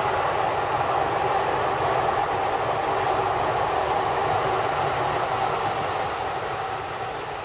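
Seibu Haijima Line electric commuter train running past close by, a steady rumble of wheels on rails that eases slightly near the end as it draws away.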